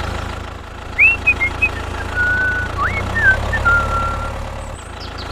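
Tractor engine idling with a steady low hum. From about a second in, a run of thin whistled chirps, quick upward glides and short held notes plays over it, ending about a second before the end.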